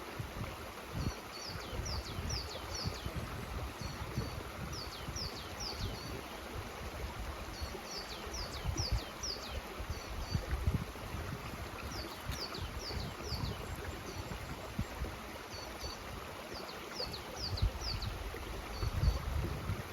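Mountain stream rushing steadily. A bird repeats a short phrase of quick, high descending notes every couple of seconds, over irregular low rumbles.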